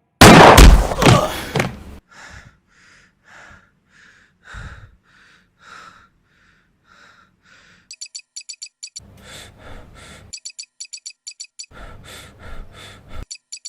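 Sound-effect demo for headset positioning: a loud bang-like burst, then a run of evenly spaced soft steps, about two a second. From about eight seconds in, fast high clicking sets in, about eight a second, broken twice by rougher louder bursts.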